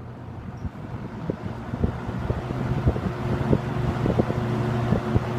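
1977 Kmart Lakewood K-223 20-inch box fan with its McMillan motor spinning up from low to high speed: the rush of air and motor hum grow steadily louder, with scattered light ticks.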